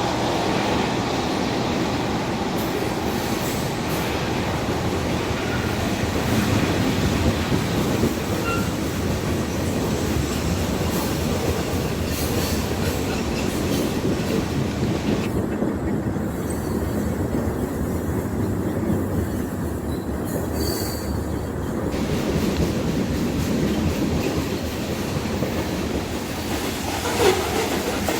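Freight train cars rolling past at steady speed: a continuous rumble and clatter of steel wheels on the rails.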